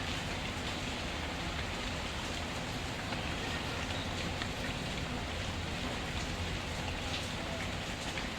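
Steady rain falling, an even hiss, with a few faint short crackles from a wood fire now and then.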